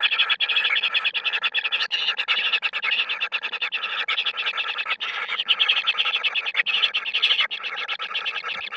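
Continuous rapid rasping animal calls, about ten pulses a second, going on without a break.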